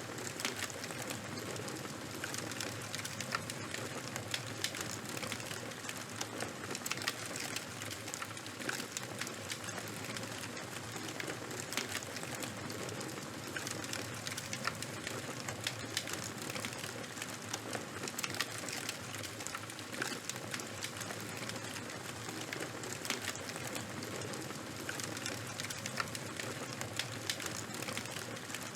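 Fire crackling: a steady hiss dotted all through with frequent small sharp pops and snaps.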